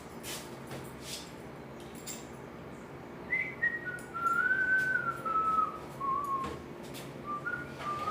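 A person whistling a slow tune, starting about three seconds in with notes that step and slide downward, then a few more notes near the end, with a few light clicks of tools.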